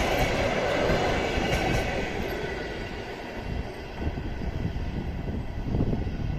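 Passenger train carriages rolling away on departure: wheels rumbling and clattering over the rail joints, louder for the first two seconds, then fading.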